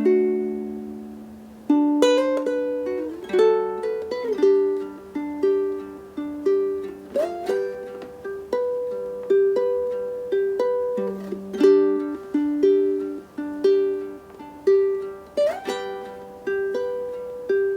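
Solo ukulele fingerpicking a melodic arrangement: a chord rings out and fades, then single picked notes follow at about two a second, twice sliding up into a higher note.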